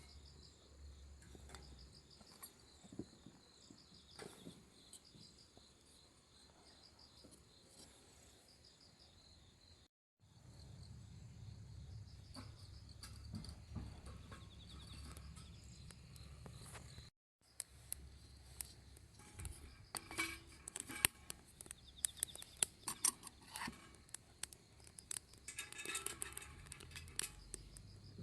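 Crickets chirping in steady pulsed trills. In the last third there are many scattered small clicks and crackles.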